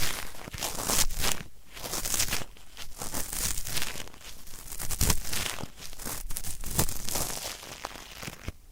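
Ear-cleaning sounds close up: a tool scraping and rubbing inside a microphone's ear, with crackly strokes about once or twice a second.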